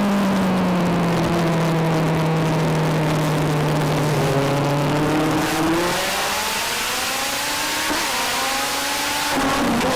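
Legend race car's Yamaha motorcycle four-cylinder engine. The pitch falls as the car lifts off into a corner, holds low for a few seconds, then climbs steadily under acceleration. Near the end the pitch drops suddenly, as at an upshift, and starts rising again.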